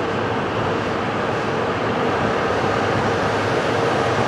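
E6 series Shinkansen cars rolling past along the platform: a steady rumble of wheels and running gear with a steady whine on top, growing slightly louder.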